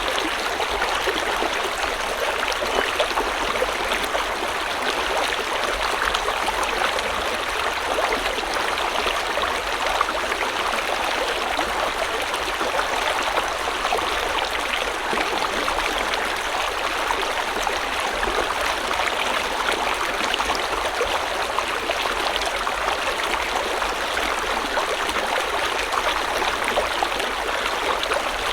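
River water flowing steadily over rocks, an even rush of babbling and splashing with no breaks.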